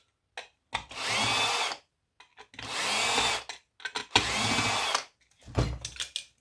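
Power drill run in three short bursts of about a second each, spinning up in pitch at the start of each, followed by a few short knocks near the end.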